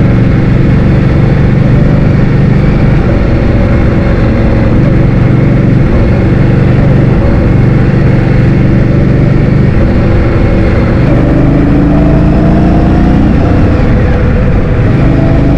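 Heavy wind buffeting the microphone while riding a motor scooter, with the scooter's engine running underneath; its pitch climbs a little about eleven seconds in as it speeds up.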